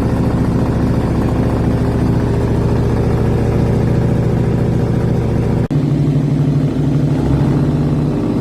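Superbike exhaust running steadily at idle. About two thirds of the way in there is a sudden cut, and a second bike's exhaust idles on at a different note.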